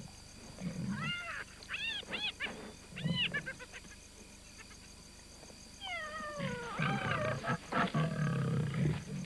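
Lions growling low as they feed at a carcass, mixed with high-pitched yelping calls from other scavengers: a cluster of short rising-and-falling calls about one to three seconds in, and a falling series of calls from about six seconds.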